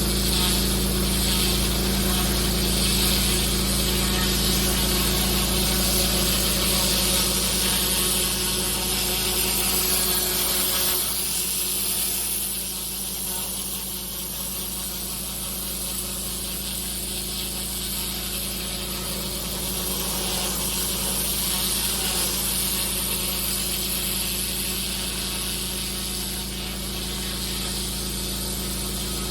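Pressure washer running steadily, an engine hum under the hiss of the high-pressure water spray on block paving. About eleven seconds in the sound thins out and drops a little.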